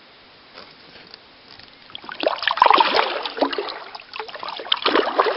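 Kayak paddle strokes: the paddle blades dipping and pulling through the water, with splashing and dripping, twice starting about two seconds in.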